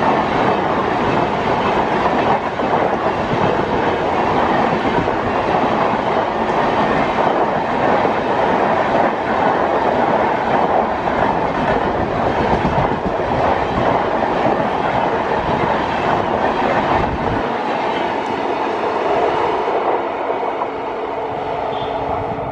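Long-distance express passenger train passing close by, its coaches rushing past with the wheels clattering over the rail joints. About three-quarters of the way through the deep rumble drops away, leaving a steady hum as the train recedes.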